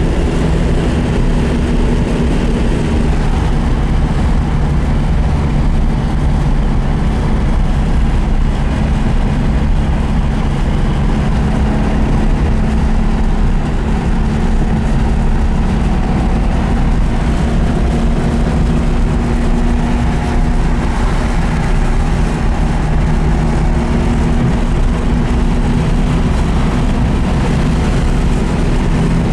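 The 1965 Porsche 356C 1600 SC's air-cooled flat-four engine running steadily at freeway cruising speed, heard from inside the cabin over a constant rush of road and wind noise.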